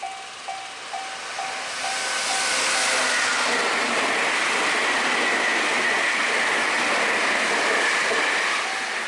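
A Meitetsu electric train passing at speed: a loud rush of wheel and air noise with a high whine, building about two seconds in and dropping away near the end. Before and after it, a railway warning bell ringing about twice a second can be heard.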